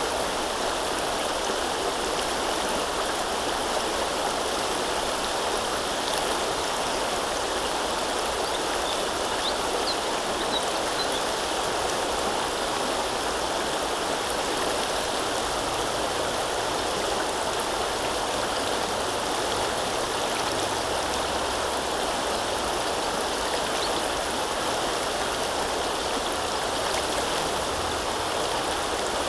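Flowing river water: a steady, even rush of moving water.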